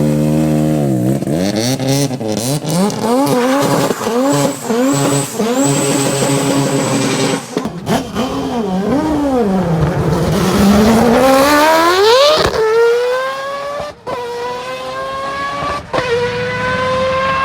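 Mazda rotary (Wankel) engines revving hard: the pitch swings up and down in quick repeated blips, then climbs in one long pull, drops sharply as if on an upshift, and climbs slowly again. There are a few abrupt cuts between recordings.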